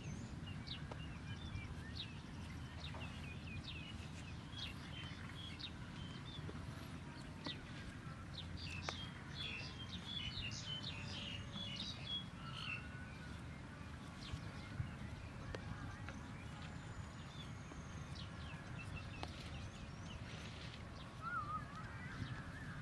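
Small birds chirping on and off, busiest around the middle, over a steady low outdoor background rumble.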